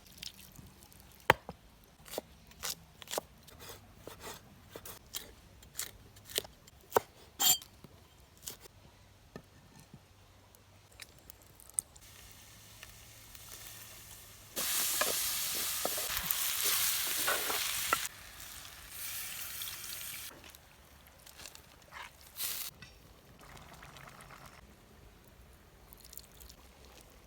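Food frying in hot oil in a clay pot over a wood fire. A run of sharp clicks and knocks from handling comes first. About halfway through, a loud sizzle starts suddenly and stops about three seconds later, followed by quieter sizzling and a short burst.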